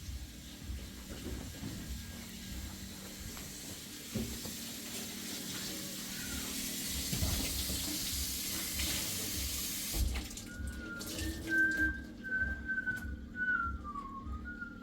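A steady hiss for about ten seconds that cuts off abruptly, then a person whistling a wavering tune that drifts down in pitch toward the end.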